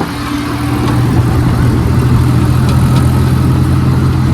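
Tractor engine running steadily with a low, even hum, growing slightly louder about a second in.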